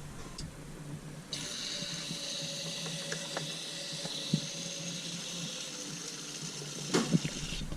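Aerosol can of GZox engine-decarbonising cleaner hissing steadily as it is sprayed into an engine cylinder through the spark-plug hole. The hiss starts about a second in and cuts off near the end, with a single click partway through.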